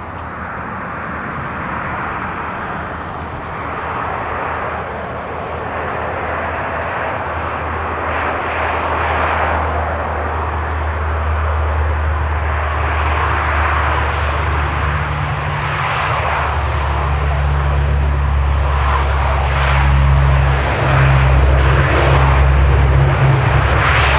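Aircraft engines running and growing gradually louder. A low steady drone builds in over the last third.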